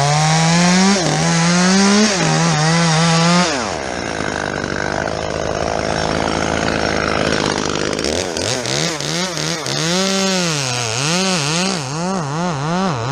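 Two-stroke chainsaw cutting fir wood, its engine note dipping and climbing as the cut loads it. For a few seconds in the middle the note gives way to a rougher cutting sound, and near the end it wavers up and down about once a second. The chain is dull, as the uploader says.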